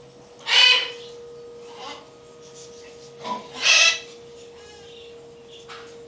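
Two loud, harsh parrot squawks about three seconds apart, with softer calls of other birds in between.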